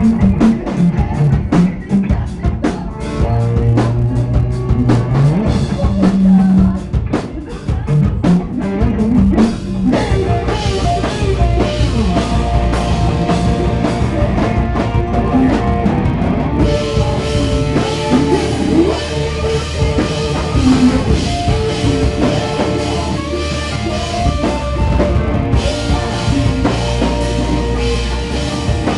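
Live rock band playing: drum kit hits over bass and guitar for the first several seconds, then the full band comes in about ten seconds in, with the cymbals ringing steadily from about halfway through.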